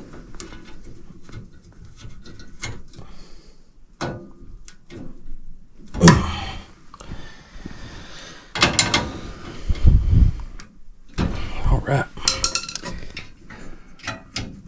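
Metal clinking and clattering from hand tools and sheet-metal furnace parts being handled, with a few louder knocks partway through.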